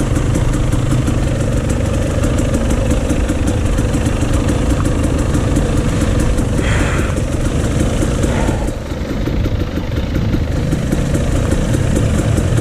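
Dirt bike engines idling steadily, with a short hissy burst about halfway through and a brief drop in level a little later.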